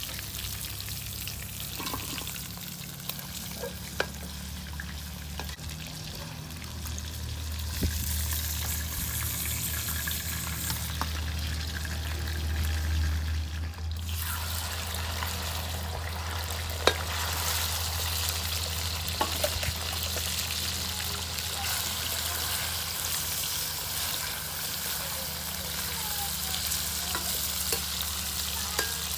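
Chicken pieces sizzling in hot oil in an iron kadai, with a steady frying hiss. A few sharp clinks come from the steel ladle knocking and scraping against the pan as the pieces are stirred.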